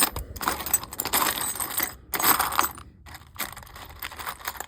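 Loose metal screws clinking and rattling as a hand rummages through a pile of them, in a dense, irregular clatter.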